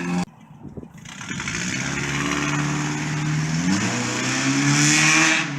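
Car engine running through a loud aftermarket exhaust (header, catalytic converter and mid pipe), its note rising about four seconds in and holding higher and louder before cutting off suddenly.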